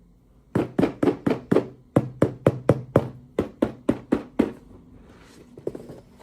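A quick, even run of about sixteen sharp taps or knocks, about four a second, with a short break near two seconds in, followed by a few faint ticks near the end.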